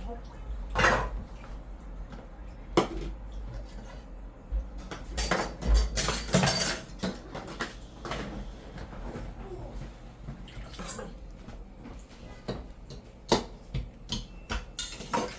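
Metal pots, lids and utensils clanking and clinking as they are handled, a dozen or so separate sharp knocks with a busy run of them about halfway through.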